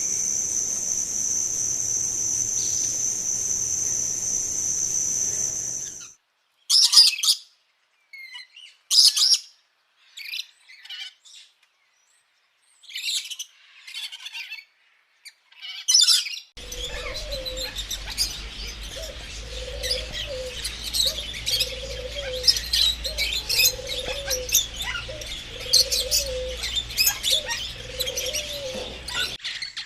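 A steady high insect trill, typical of a cricket, for the first six seconds. It then cuts to separate bird chirps with gaps of silence between. From about halfway a busy chorus of small birds chirps, over a low call that repeats about once a second.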